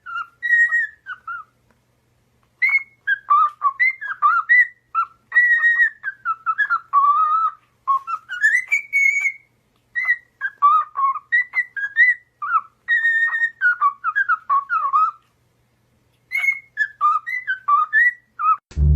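Parrot whistling phrases of gliding notes, pausing briefly twice.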